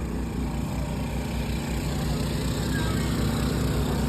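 An engine running steadily, a low even drone that holds one pitch throughout.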